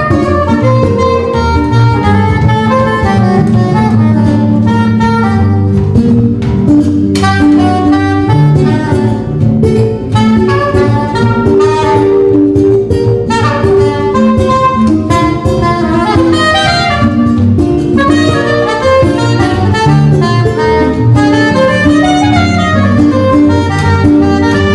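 A music trio playing live, a melody line of many short notes over bass notes.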